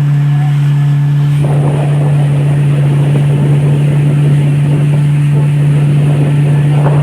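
Motorboat engine running with a steady hum, joined about one and a half seconds in by a loud rush of water and wind as the boat picks up speed.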